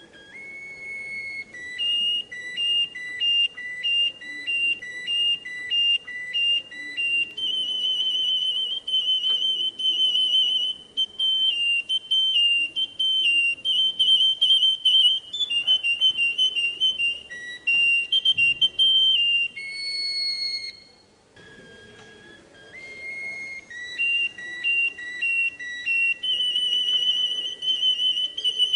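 Russian singing canary song: long runs of clear, quickly repeated whistled notes and rolling trills. The song breaks off briefly about two-thirds of the way through, then starts again.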